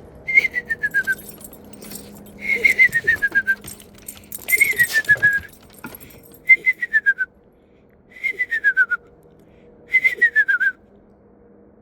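A person whistling an imitation of a screech owl's call: six quavering whistles, each sliding down in pitch, about every two seconds.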